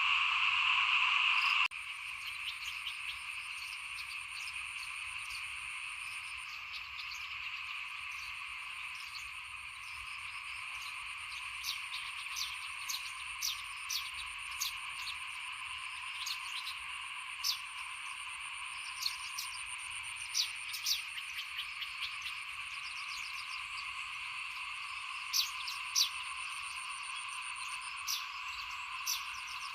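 A chorus of small frogs calling: a dense, steady trilling with many short, sharper calls scattered over it, and a thin, steady high-pitched whine above. The whole chorus drops to a lower level about two seconds in.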